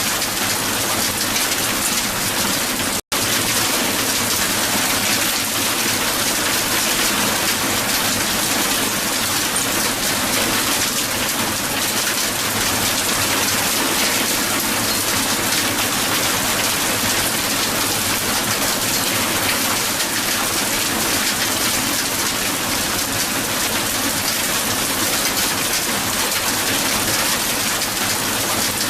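Dense, steady patter of hailstones striking a hard surface, with a momentary dropout about three seconds in.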